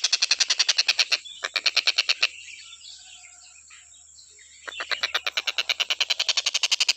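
A tengkek buto (Javan kingfisher) calling in long, fast rattling trills of evenly spaced notes. The rattle stops just over two seconds in and starts again near the end.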